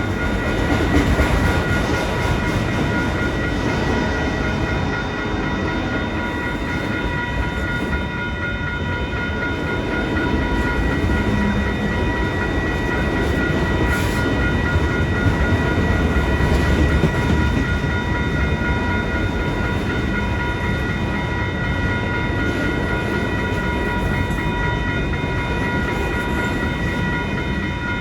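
CN mixed freight train's cars rolling past with a steady low rumble, and several steady high tones running over it.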